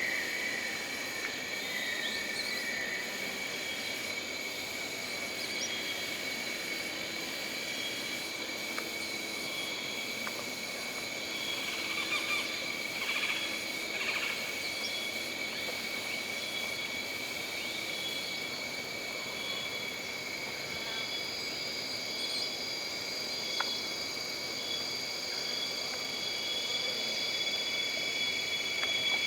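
Jungle ambience: insects droning steadily at a high pitch over a soft hiss, with a short high chirp repeating about once a second and a brief flurry of calls in the middle.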